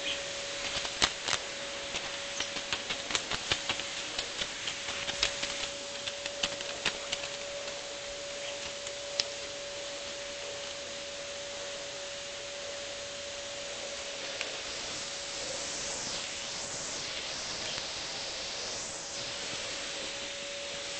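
Lovebird working with its beak, a quick irregular run of sharp clicks and nibbling ticks as it tears strips to tuck into its feathers, dying away after about nine seconds into fainter rustling. A steady hum sits underneath.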